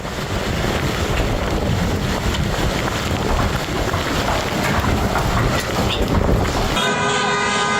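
Strong wind blowing over the microphone, a loud, steady rushing noise. Near the end it cuts off abruptly to a steady tone at several pitches.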